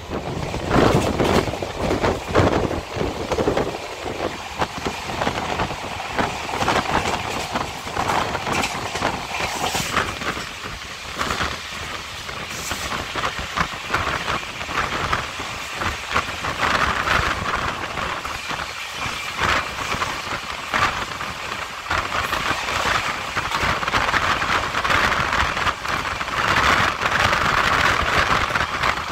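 Passenger train coach running along the track: a steady rumble with irregular clattering and knocks of the wheels over the rails.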